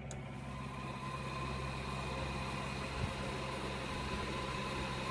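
A relay clicks and the Pontiac G6's electric radiator cooling fan runs with a steady whir, switched on through the fan relay to show that the fan motor works.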